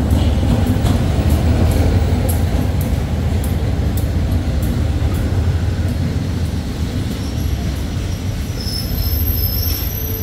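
Diesel-hauled passenger train rolling slowly into the station: a steady low rumble with regular wheel clicks over the rail joints that come further apart as it slows, and a thin high brake squeal near the end as it comes to a stop.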